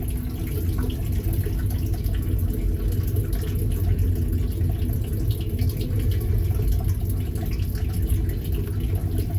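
Freight cars of a passing train rolling by: a steady low rumble of steel wheels on the rails.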